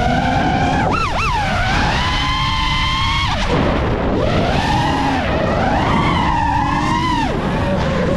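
Five-inch iFlight Nazgul5 V3 FPV quadcopter's brushless motors and propellers whining, the pitch rising and falling quickly with the throttle over a rushing noise. A quick warble comes about a second in, and the pitch drops sharply about three and a half seconds in and again near seven seconds.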